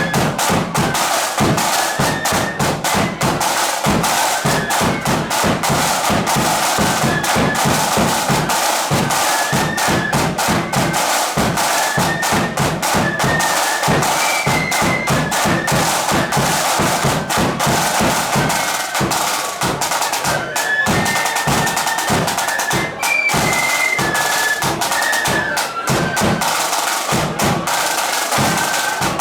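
Marching flute band playing a tune: many flutes carrying a shrill melody in unison over snare drums and a bass drum keeping a steady march beat.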